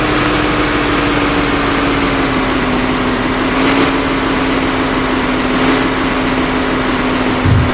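Diesel engine of heavy earth-moving machinery running at a steady speed, with a steady whine that wavers slightly in pitch. A low thump comes just before the end.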